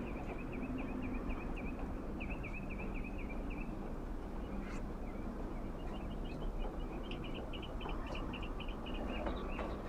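A bird singing: two runs of quick, repeated chirps, the second starting a few seconds after the first ends.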